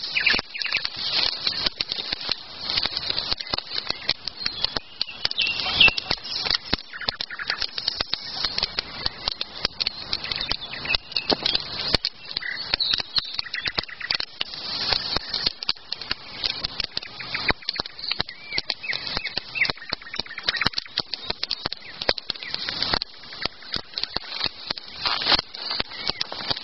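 Campfire crackling with dense, irregular pops and snaps, with a few faint bird chirps behind it.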